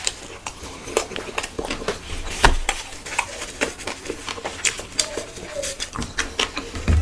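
Wet chewing and lip-smacking of a mouthful of bhuna khichuri, close to the microphone, with fingers squishing rice on the plate. It is a run of irregular sharp smacks and clicks, one louder about two and a half seconds in.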